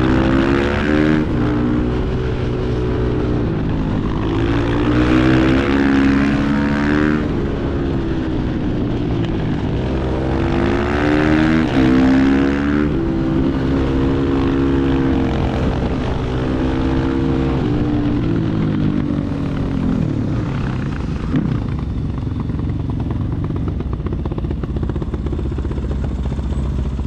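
Supermoto motorcycle engine under hard riding: the revs climb and drop back again and again as it accelerates, shifts gear and rolls off the throttle, with steadier running in between.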